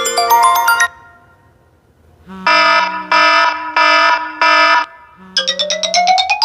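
Stock iPhone ringtones playing back to back: a bright run of mallet-like notes ends about a second in, then after a short gap comes an alarm-like tone of four harsh buzzing pulses, and near the end a fast run of notes begins, climbing steadily in pitch.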